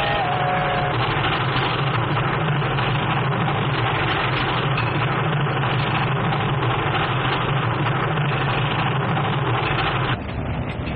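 Steam locomotive running at speed: a steady rolling rumble. A held tone dies away about a second in, and the rumble drops in level suddenly near the end.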